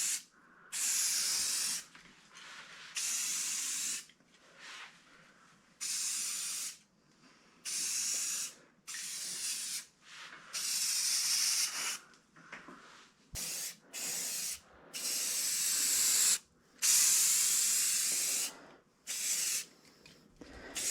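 Aerosol spray paint can being sprayed in a series of short bursts, about a dozen hisses of a second or two each with brief pauses between.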